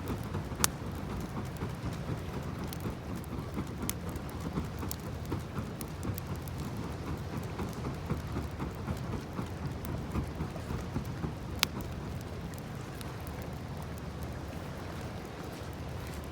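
Small wood fire crackling, with a constant patter of little snaps and two sharp pops, one about half a second in and one near the middle, over a low rumble.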